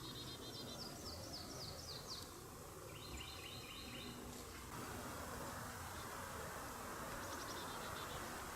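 Small songbirds singing: a quick run of repeated high chirped notes, then a second, slightly lower run of notes about three seconds in and a faint short trill later, over a steady hiss of outdoor background noise.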